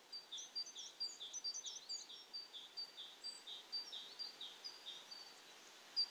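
Birds chirping faintly: a steady run of short, high chirps, about two or three a second.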